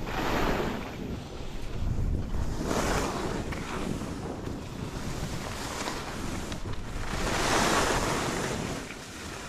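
Skis sliding and carving over snow, a rushing hiss that swells with each turn, about three times, with wind blowing on the camera microphone.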